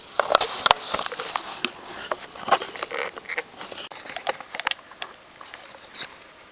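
Budgerigar chattering and warbling softly to itself, a quick, irregular stream of clicks and short chirps.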